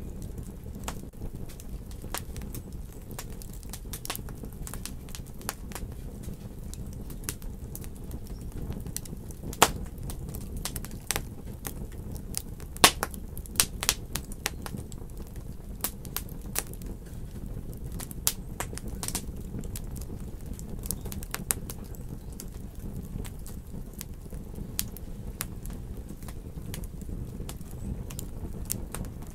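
Wood fire burning in a fireplace: a steady low rumble with frequent sharp crackles and pops, two of them louder, about ten and thirteen seconds in.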